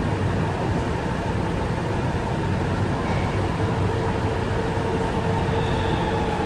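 Keihan 3000 series electric train approaching through the station: a steady rumble, with faint whining tones coming in about halfway through and building.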